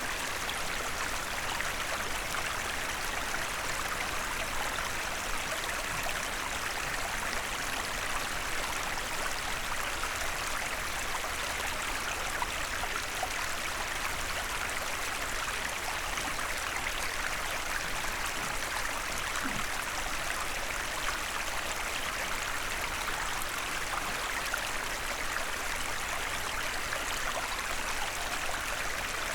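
Small forest stream running steadily over stones, an even rushing and burbling of water.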